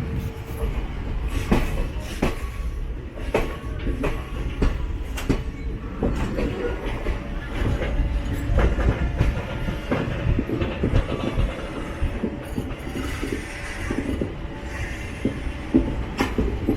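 Passenger train coaches running on the rails: a steady rumble with wheels clicking irregularly over rail joints, roughly once a second.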